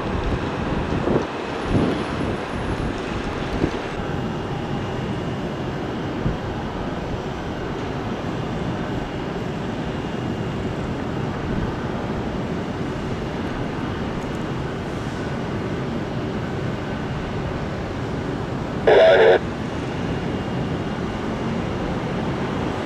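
Jet airliner engines running steadily at the airport, a continuous rumble with some wind on the microphone. A short, loud crackle cuts in about nineteen seconds in.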